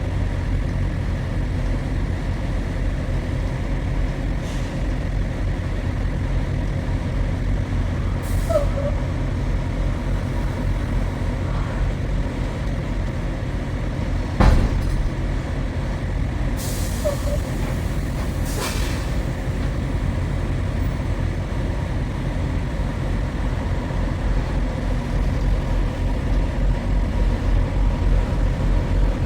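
Heavy truck's engine running steadily with a low rumble. About halfway through there is one sharp knock, followed a couple of seconds later by two short hisses.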